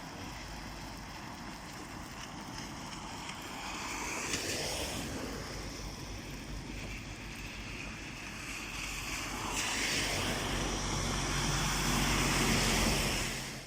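Road traffic noise: a steady rush of tyres and wind from passing vehicles. It swells twice as vehicles go by, and a low engine hum joins in the second half.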